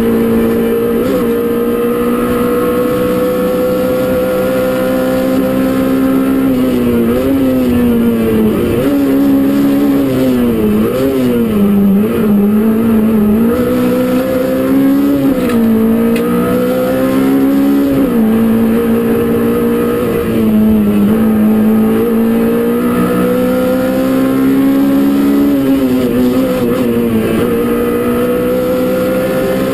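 Peugeot 205 Rallye Group A four-cylinder engine heard from inside the cabin, driven hard. Its pitch climbs and drops repeatedly with gear changes and lifts off the throttle, the quickest swings coming about a third of the way in.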